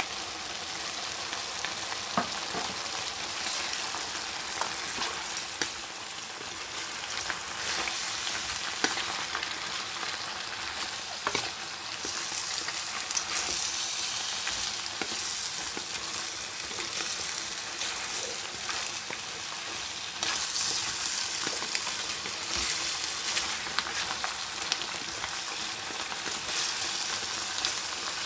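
Chicken wings, potatoes and carrots sizzling in a frying pan while they are stirred with a wooden spatula, with scattered light knocks and scrapes of the spatula against the pan. The sizzling grows louder about two-thirds of the way through.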